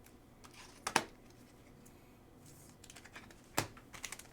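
A few light clicks and taps of trading cards being handled: two close together about a second in, faint ticking around three seconds, and a sharper click shortly before the end.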